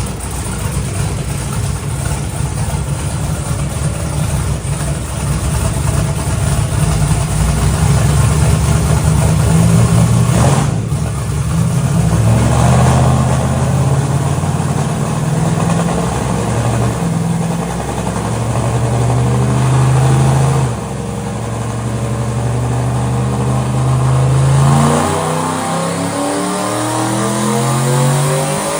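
Twin-turbo NASCAR truck engine making a long wide-open-throttle pull on a chassis dyno toward 8,000 RPM. It runs loud and builds, dips briefly about two-thirds of the way through, peaks, then the throttle is lifted near the end and the revs fall away.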